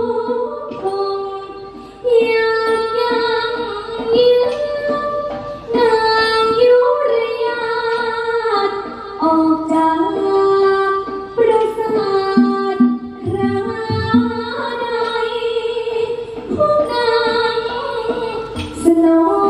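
A woman singing a melodic song with long held and gliding notes, over musical accompaniment.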